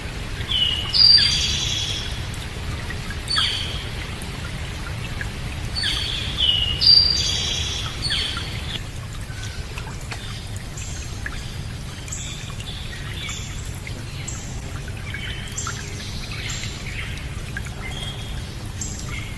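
Birds singing and calling over a steady low rush of running water. The loudest calls come in the first eight seconds or so, then softer chirps carry on.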